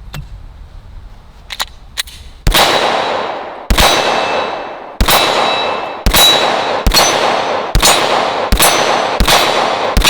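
Glock 19 9mm pistol fired nine times at a steady pace, about a shot a second, each shot followed by the ringing of struck steel targets. Two light clicks come just before the first shot.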